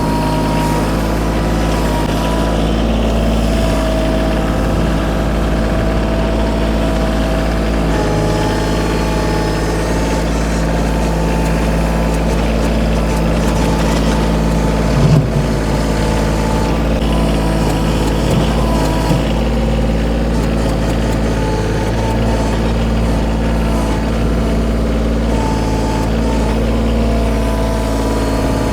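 Kioti compact tractor's diesel engine running steadily, with a brief surge about halfway through.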